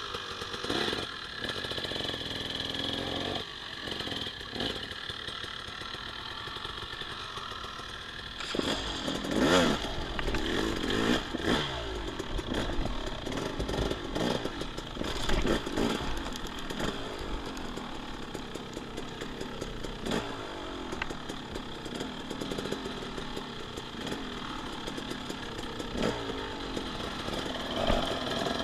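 Dirt bike engine revving up and down in repeated throttle bursts while riding a woods trail, with scattered knocks and clatter; the hardest revs come about a third of the way in.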